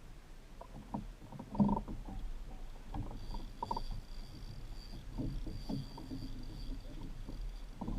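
Water sloshing against a Hobie Pro Angler's plastic kayak hull, with irregular knocks and bumps on the boat; the loudest knock comes about a second and a half in.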